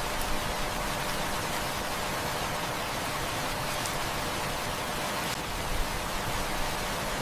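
Heavy rain falling steadily, an even hiss, with a few faint sharp ticks.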